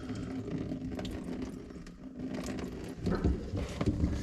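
Backed-up water pouring out of a loosened kitchen sink drain pipe, with a few knocks about three seconds in.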